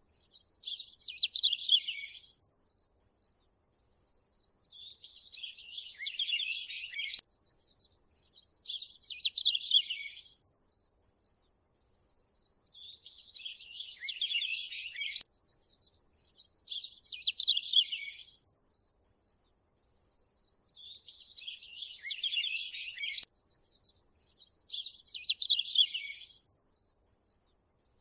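Bird calls in short chirping phrases about every four seconds, repeating in a regular pattern, over a steady high-pitched insect hiss such as crickets.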